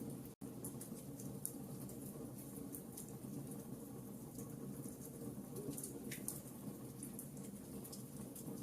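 Wood fire burning in a fireplace: irregular small crackles and pops over a steady low rumble of flames. The sound cuts out for an instant about half a second in.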